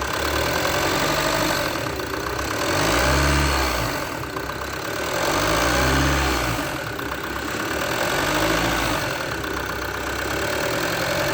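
Ram Rampage 2.2 turbodiesel engine running with diesel clatter. Its speed rises and falls gently in slow swells about three times.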